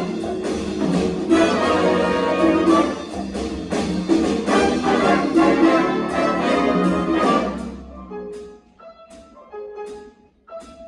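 Jazz big band with brass playing a swing tune in full ensemble, with a sharp rhythmic punch on each accent; after about eight seconds the full band drops out, leaving sparse short notes.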